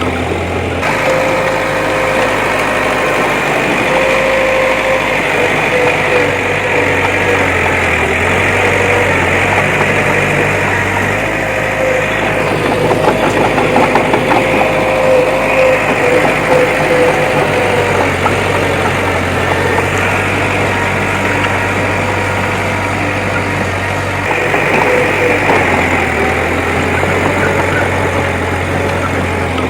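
Heavy earthmoving machine's diesel engine running continuously, working harder and louder for a few seconds in the middle.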